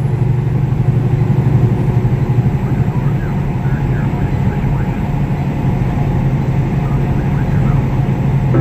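Steady low drone of a semi truck on the road, engine and road noise together.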